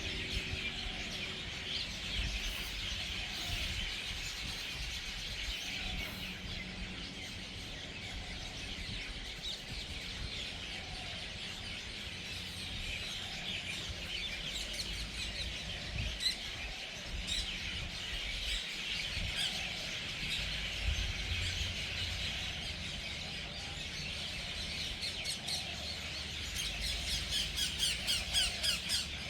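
A large flock of birds calling and squawking together as they settle into an evening communal roost: a dense, continuous chorus of overlapping chirps and squawks, with a louder burst of rapid, pulsing chatter near the end.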